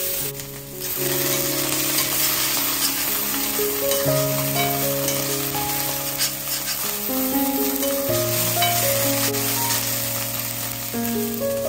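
Onion, green chillies and ginger-garlic paste sizzling in mustard oil in a pan, a steady frying hiss throughout. Background music plays a slow melody of held notes over it.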